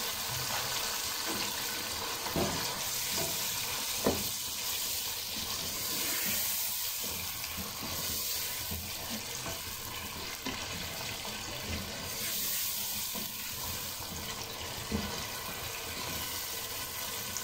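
Chicken pieces sizzling as they fry in hot ghee and masala in a pot, stirred with a slotted spoon that scrapes and knocks against the pot a few times.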